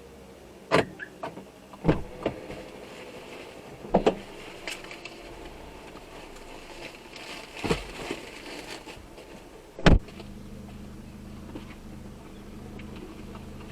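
A handful of separate sharp knocks and thumps, the loudest about ten seconds in, followed by a steady low hum.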